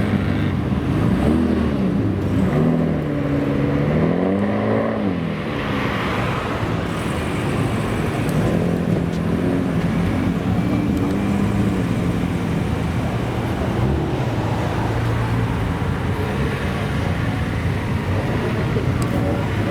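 Car engine revving: its pitch rises and falls several times in the first few seconds, then it runs more steadily with smaller changes in pitch.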